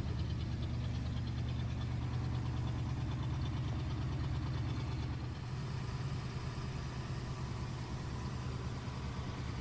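1956 Corvette's 265 cubic inch V8 with dual four-barrel carburetors idling steadily, easing off slightly about five seconds in.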